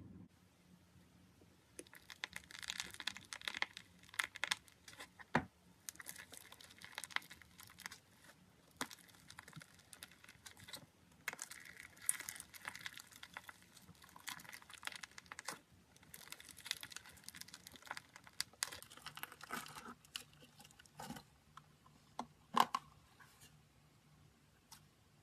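Slime being squeezed and worked by hand, crackling and popping in dense runs of small clicks, with a sharper pop near the end.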